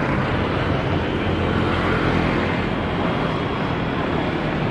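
Steady rumble of an airliner's jet engines, an even roar with no clear rise or fall.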